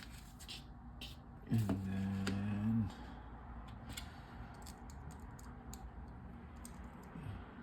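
LEGO bricks clicking and small plastic pieces rattling while a set is assembled, in scattered sharp ticks. About a second and a half in, a man gives a low steady hum lasting just over a second.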